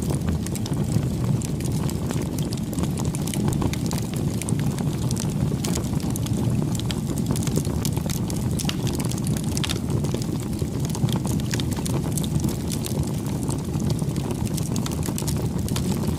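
Wood fire burning: a steady low rumble of flames with frequent sharp crackles and pops from the burning wood.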